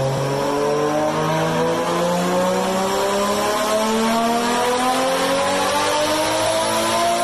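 Nissan Skyline R32 engine under load on a dynamometer, its revs climbing slowly and steadily in one long pull.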